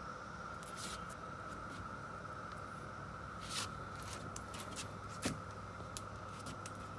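A steady, even drone of a cicada chorus, holding one pitch, with a few faint clicks and rustles of handling close by.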